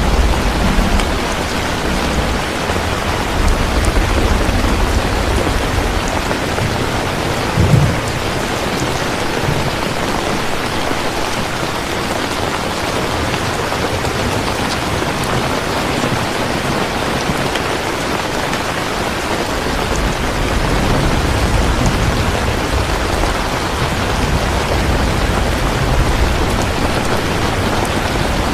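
Steady heavy rain, an even hiss with no break. A deep rumbling sits under it at the start and again toward the end, with a short low thump about eight seconds in.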